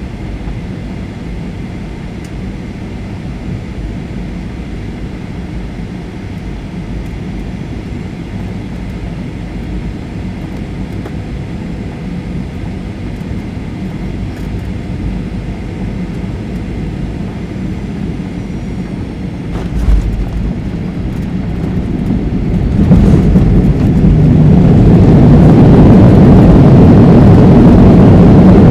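Cabin noise of a Boeing 737-800 descending, then a low thud about two-thirds of the way in as the wheels touch down. A couple of seconds later the noise rises sharply and stays loud as the CFM56 engines go to reverse thrust on the landing roll.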